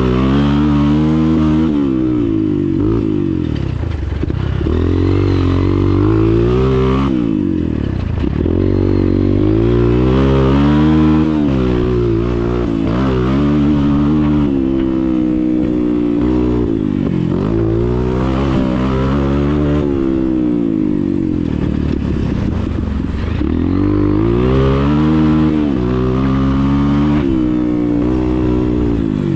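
Motocross bike engine heard up close from on board, revving up and dropping back over and over as the throttle is opened and closed around the track.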